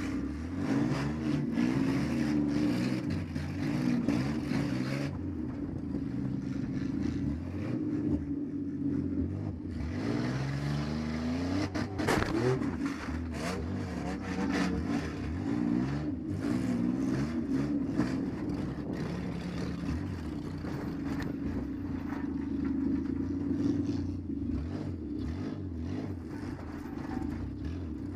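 Minivan engine revving up and down under throttle, heard from inside the vehicle. Sharp clanks and knocks come through now and then, the strongest about twelve seconds in.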